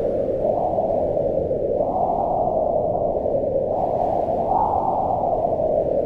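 Low, muffled wind rushing steadily, swelling and easing in gusts every couple of seconds.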